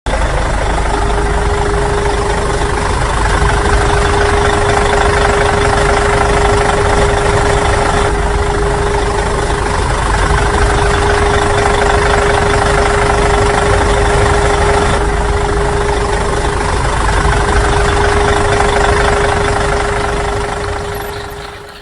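A motor or engine running steadily with a constant hum, starting suddenly and fading out near the end.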